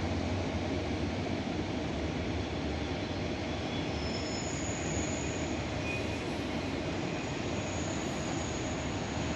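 Freight train of autorack cars rolling past with a steady rumble of wheels on rails. Faint high-pitched wheel squeals come and go in the middle and second half.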